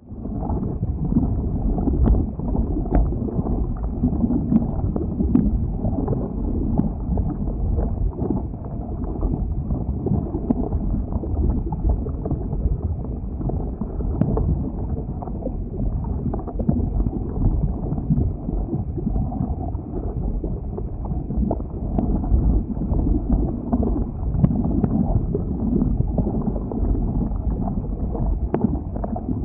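Lava flow: a dense low rumble with irregular crackles and scattered sharp clicks.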